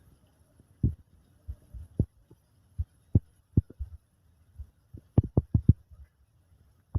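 Scattered dull thumps and knocks at irregular intervals, with a quick cluster of five or six about five seconds in.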